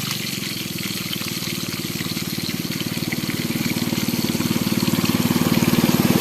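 A small boat engine running with a fast, even beat, getting gradually louder as it approaches along the river, over a steady hiss of water.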